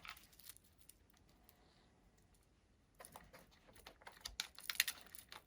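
Light clicks and taps of cables and small plastic connectors being handled, starting about three seconds in after a quiet stretch and bunching up near the end.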